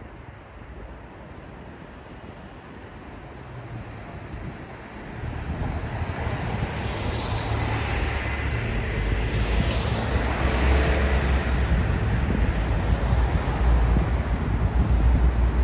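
Road traffic, with a vehicle's engine and tyre noise swelling from about five seconds in as it comes close and passes, then a steady louder rumble of traffic.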